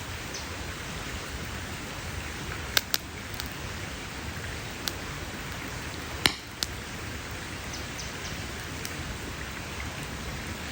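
Wood campfire crackling: a steady hiss of burning with sharp pops, two close together about three seconds in and the loudest about six seconds in.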